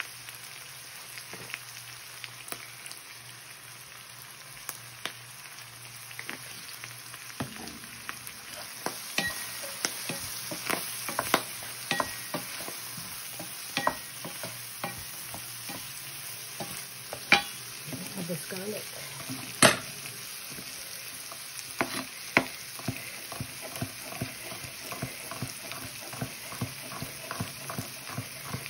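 Corn kernels sizzling in a skillet, stirred and scraped with a wooden spatula that knocks against the pan now and then. Near the end a knife chops garlic on a cutting board in quick, regular taps.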